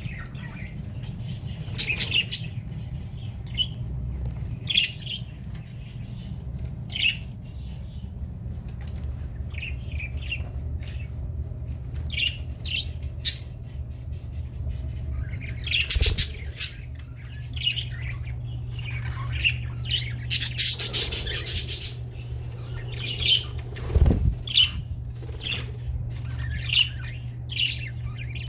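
Budgerigars chirping and squawking in many short, scattered calls, with a couple of brief rustles of wings past the middle. A steady low hum runs underneath.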